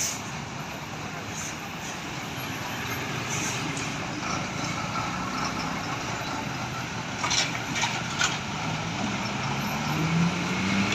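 A heavy truck's engine running, its low note rising near the end, over a steady hiss of road noise. There are several brief, sharp hisses about seven to eight seconds in.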